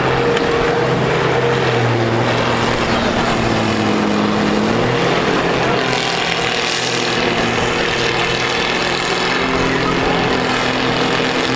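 Diesel engines of demolition-derby combine harvesters running and revving, several engine tones stepping up and down in pitch over one another.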